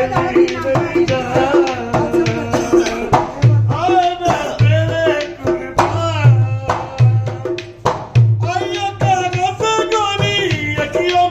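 Rajasthani folk music accompanying a puppet show: a hand drum beating a steady rhythm of deep strokes under a singing voice that slides up and down in pitch.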